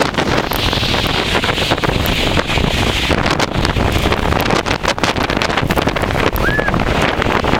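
Strong wind buffeting the microphone: a loud, steady rushing noise with constant gusty crackle.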